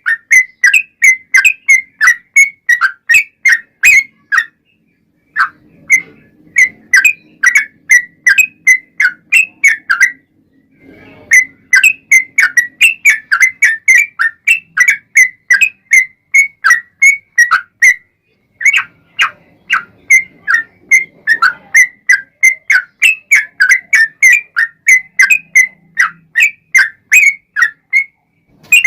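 Yellow-vented bulbul (trucukan) singing a long, rapid run of short, loud whistled notes, about three to four a second, broken by brief pauses a few times.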